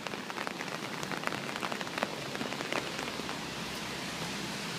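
Light rain falling, a steady patter with scattered sharp taps and drips that are thickest in the first three seconds.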